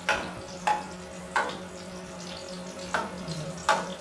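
Garlic and ginger sizzling in hot oil in a nonstick wok while a metal spatula stirs them, knocking against the pan five times. A low steady hum runs underneath.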